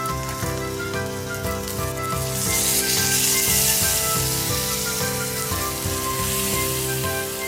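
Steak sizzling as it cooks over a campfire; the sizzle swells louder about two and a half seconds in and eases off a few seconds later. Background music with held notes plays throughout.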